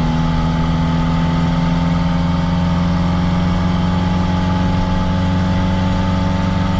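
1969 Reliant Regal three-wheeler's small four-cylinder engine running at a steady speed while the car is driven, its pitch holding nearly level with a slight rise.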